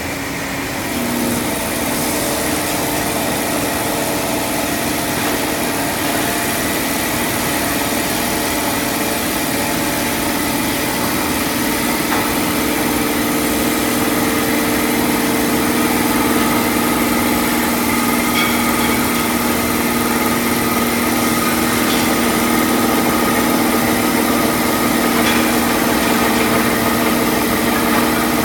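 CNC lathe running: a steady machine hum of several held tones over a dense whirring noise, stepping up slightly about a second in.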